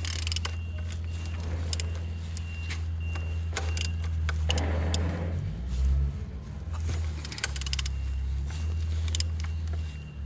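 A used car engine being turned over by hand with a wrench to check its compression: scattered metallic clicks and knocks over a steady low hum, with a brief scraping rush about halfway through.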